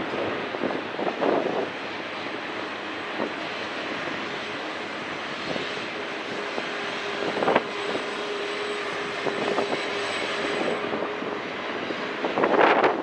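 BNSF double-stack intermodal freight cars rolling past on the rails: a steady rumble of wheels and cars with occasional clanks, and a cluster of louder knocks near the end.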